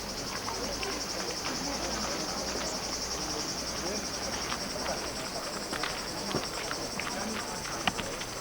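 Insects trilling steadily in a fast, even pulse, with a few faint clicks scattered through.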